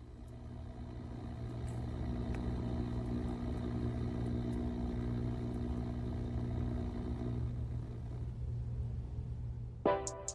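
A low, steady rumbling drone swells up and holds. Near the end, sharp electronic drum hits come in as music starts.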